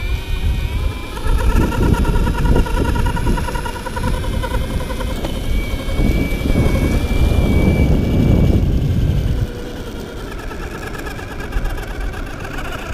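Blink electric skateboard's belt drive running with a whine that wavers rapidly, over a heavy low rumble that eases off about nine and a half seconds in. The owner takes the noise for the belt rubbing against a wobbly drive wheel and gear.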